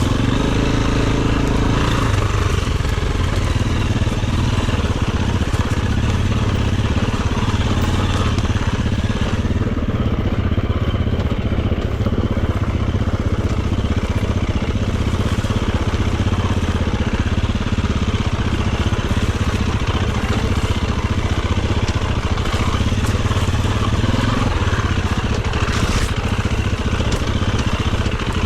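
Dirt bike engine running steadily while riding off-road, its note dropping about two seconds in.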